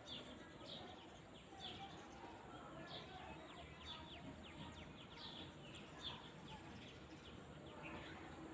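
Faint outdoor ambience of small birds chirping: repeated short falling chirps over a steady background hiss.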